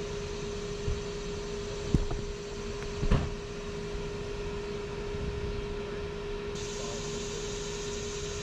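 A steady mechanical hum at one unchanging pitch, with two short knocks about two and three seconds in.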